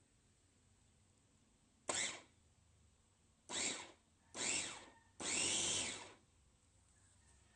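Kaisa Villa electric meat grinder and food processor motor switched on in short pulses: four bursts, each starting suddenly and fading, the last one the longest at nearly a second.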